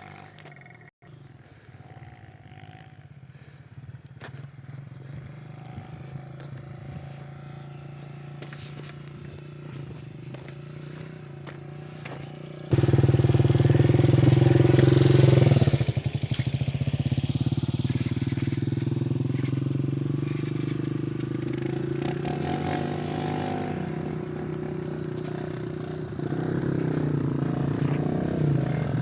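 Motorcycle engine running while riding, steady and slowly getting louder. About halfway through it jumps suddenly much louder, then eases back a little a few seconds later.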